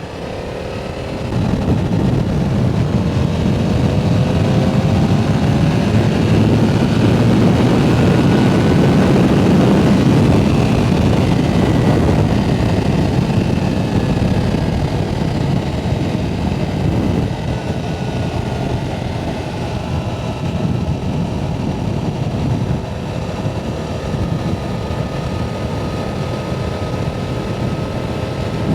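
Yamaha R7's 689 cc parallel-twin engine under way, its note rising through the first few seconds as the bike accelerates, mostly buried under heavy wind rush on the rider's microphone.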